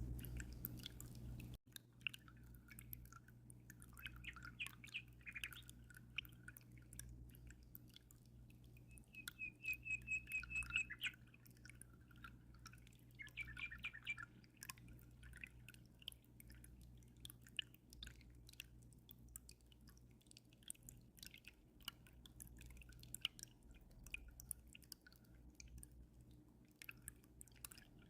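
Faint dripping and trickling aquarium water, many small drops falling, over a low steady hum. Small birds chirp now and then, with a quick run of repeated notes about ten seconds in.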